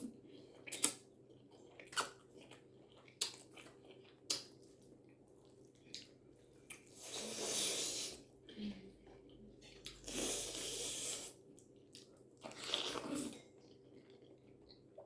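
Close-up mouth sounds of eating spaghetti with shrimp and vegetables: wet chewing with sharp mouth clicks every second or so. Three longer hissing stretches of about a second each come around the middle and near the end.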